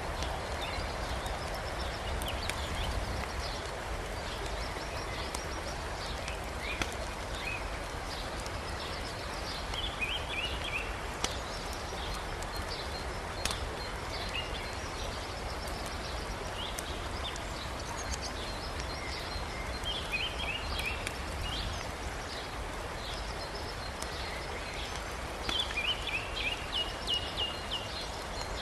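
Steady rush of a mountain river, with a wood campfire crackling in occasional sharp pops. A small bird chirps in quick repeated runs several times, most busily near the end.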